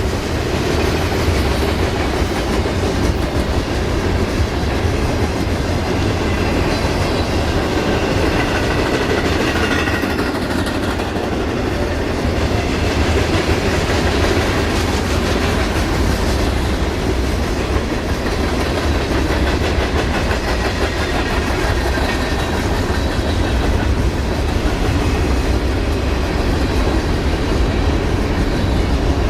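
A train rolling past, its railcar wheels clattering steadily over the rail joints with a low rumble underneath.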